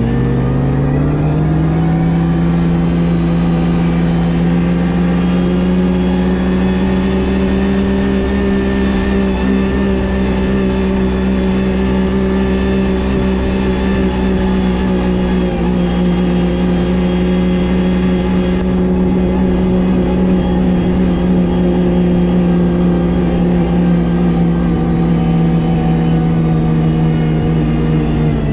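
Ski-Doo GSX 600 HO snowmobile's two-stroke engine running under way at a steady cruising speed. It picks up revs over the first two seconds and eases off slightly near the end.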